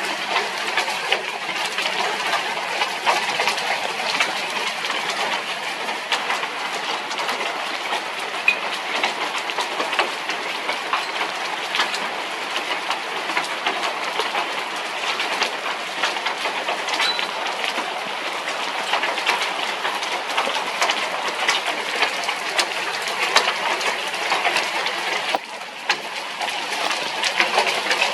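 Heavy thunderstorm rain pelting down: a dense, steady patter with many sharp individual drop hits. It dips briefly about 25 seconds in.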